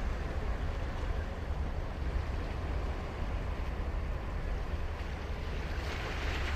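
Ocean surf on a sandy beach, a steady wash of waves. A wave breaks and hisses up louder near the end, over a low wind rumble on the microphone.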